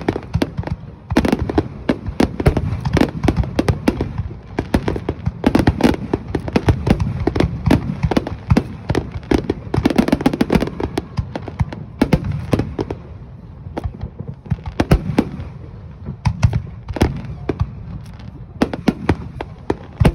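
Aerial fireworks shells bursting in a dense barrage: booms and sharp reports several times a second. The bursts thin out somewhat in the second half, then pick up again near the end.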